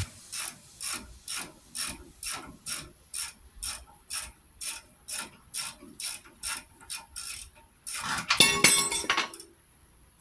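Hand ratchet wrench ratcheting, about two clicks a second at an even pace, working a fastener during a brake job. A louder rattling burst comes about eight seconds in.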